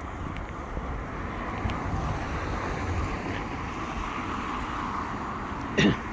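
Road traffic going by, a steady rumble and tyre noise that swells slightly midway. Near the end comes a brief, loud bump.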